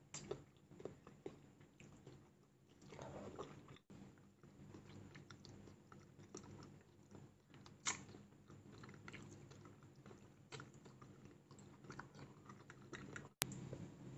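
Faint wet chewing and mouth clicks of someone eating soft raw salmon sashimi. Small clicks are scattered throughout, with a sharper click about eight seconds in and another near the end.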